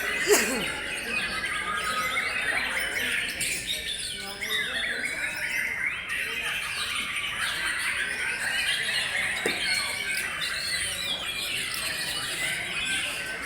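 Many caged white-rumped shamas singing at once in contest song, a dense tangle of overlapping whistles and warbles. There is one brief, louder falling squeal about a third of a second in.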